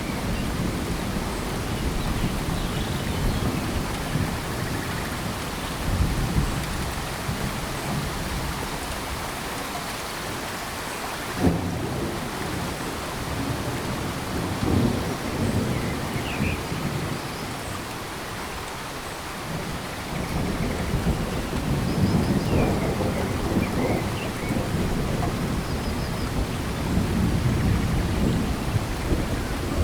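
Steady rain falling in tropical forest, with deep rumbling swells that rise and fade, strongest in the last third, and a single sharp knock about eleven seconds in.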